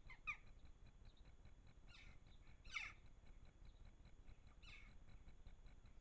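Birds calling: four short, rough calls spread over a few seconds, each sweeping down in pitch, over a faint steady hiss.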